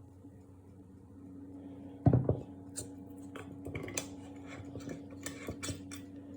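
A heavy thump about two seconds in, followed by a run of light clicks and clinks, over a steady low hum.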